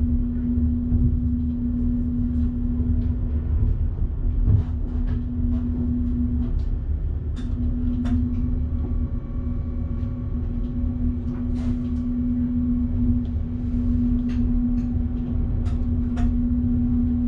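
Train running along the line, heard in the driver's cab: a steady low rumble with a constant electric hum, broken by scattered clicks and knocks.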